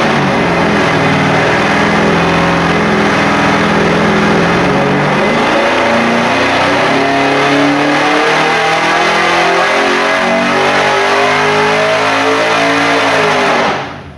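565-cubic-inch big-block Chevrolet V8 with a hydraulic roller cam and 1050 carburettor making a full-throttle dyno pull. It runs at a steady pitch for about four seconds, then the revs climb steadily for about nine seconds, and near the end the throttle closes and the engine drops off.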